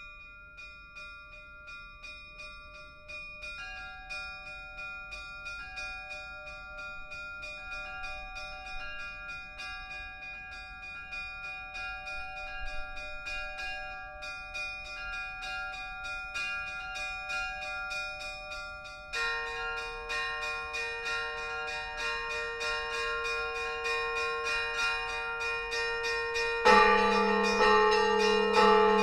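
Church bells ringing in a fast peal of many bells that grows steadily louder. A heavier bell joins about two-thirds of the way in, and a deep bell joins near the end.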